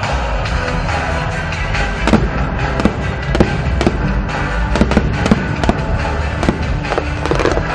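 Aerial fireworks bursting in a rapid, irregular string of sharp bangs, thickening from about two seconds in, over loud music.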